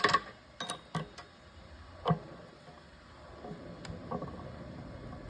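A loud sharp knock, then three quick clicks and a second knock about two seconds in, with a low rumble slowly building over the last couple of seconds.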